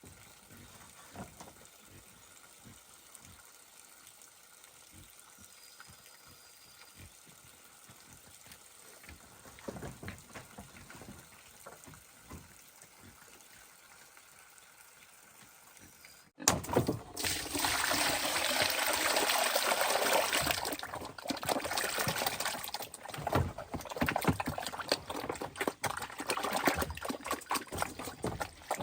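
Quiet at first with a few light knocks; then, after a sudden cut, water pouring and splashing loudly and unevenly.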